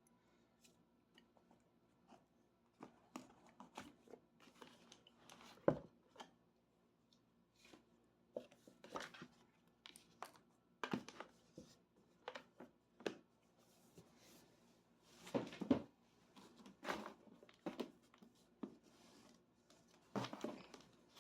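Hands opening and handling packaging: irregular rustling with sharp little clicks and knocks, in uneven clusters.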